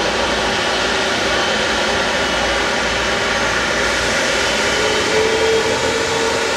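Jet airliner engines running loud and steady, a dense rushing noise with several steady whining tones in it. About five seconds in, a stronger whine comes in and rises slightly in pitch.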